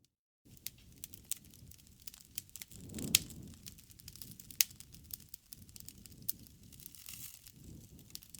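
Wood fire crackling, with scattered sharp pops over a soft low rustle of the flames; it begins after a moment of silence, and the loudest pops come about three and four and a half seconds in.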